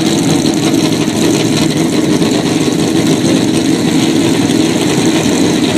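Drag-racing motorcycle engine idling steadily and loudly, with no revving.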